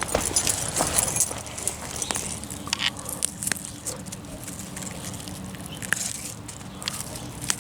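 Bull thistle being pulled by hand from a garden bed: irregular rustling, crackling and small snaps of stems and leaves.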